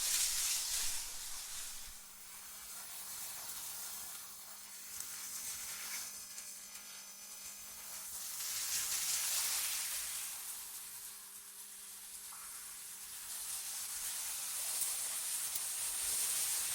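AI-generated wind ambience: a high, airy hiss that swells and fades in slow gusts, with a faint steady hum underneath.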